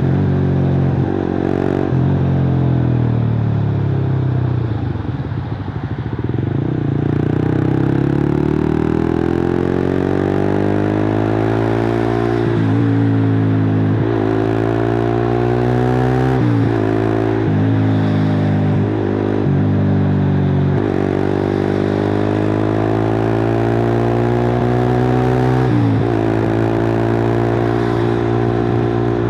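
Suzuki GSX-R150's single-cylinder engine through a cut-open exhaust, pulling hard under way: the pitch climbs steadily, then drops sharply at each gear change, about a half-dozen times.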